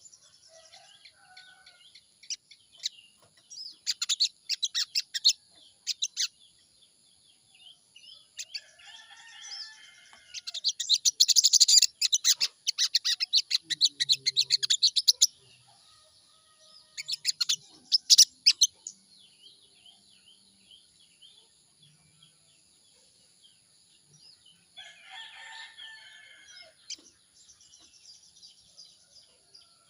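Sogon songbird singing: bursts of rapid, high chattering notes, loudest about four seconds in, from about ten to fifteen seconds in, and again around seventeen seconds, with softer warbling phrases between. A steady high whine runs underneath.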